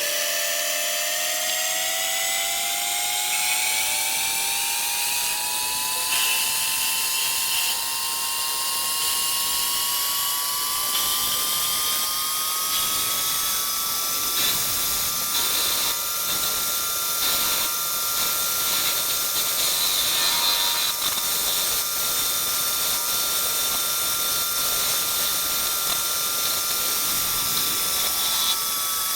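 Machine tool's motor and spindle whining, rising steadily in pitch as it speeds up over the first half, then holding a steady high whine, with faint irregular clicking over it.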